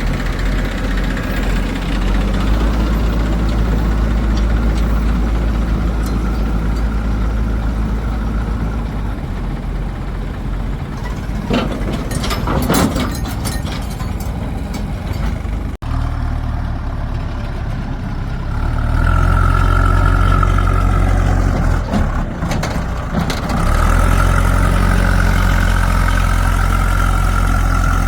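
Diesel engines of a backhoe loader and tractors running steadily, with a patch of clattering knocks about twelve seconds in. The sound breaks off for an instant near the middle, after which an engine runs louder with a steady whine over it.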